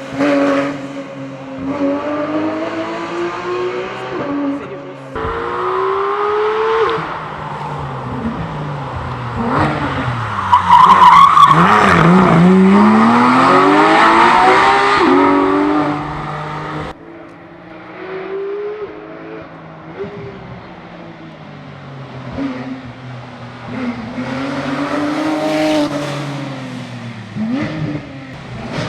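Porsche 911 GT3's flat-six engine revving hard and changing gear through a run, its pitch climbing and dropping again and again; the sound breaks off abruptly twice. The loudest stretch, in the middle, has the engine pulling down and climbing back up, with tyre squeal.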